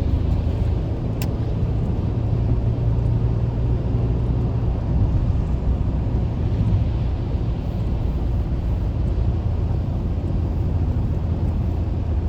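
Steady low drone of a car's engine and tyres heard from inside the cabin while driving, with a single short click about a second in.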